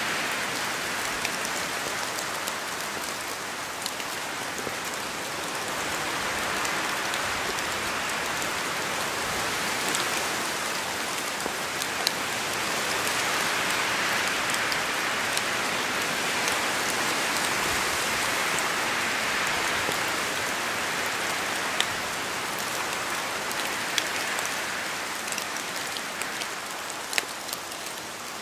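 Steady rain falling on a surface, a dense even hiss with scattered sharper drops ticking through it; it swells and eases slightly every few seconds.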